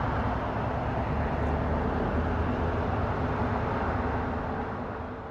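Airbus A340-313 with four CFM56 jet engines at taxi power: a steady rumble with a low hum that fades out near the end.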